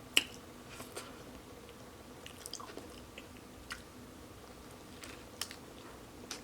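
A person chewing and biting a fried mozzarella stick close to the microphone, with short sharp mouth clicks scattered through, the loudest right at the start.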